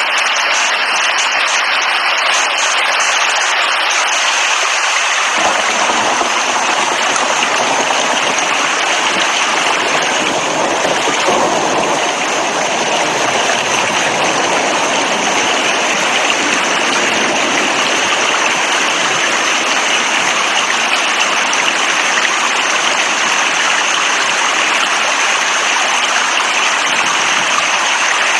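Steady heavy rain, a dense even hiss. About five seconds in it turns fuller and deeper.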